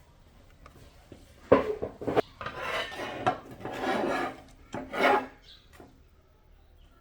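Rasping, scraping strokes on a hard surface for a few seconds, after a sharp knock about one and a half seconds in.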